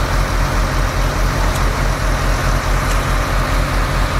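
Heavy engine running steadily at idle, with an even low throb of about six beats a second.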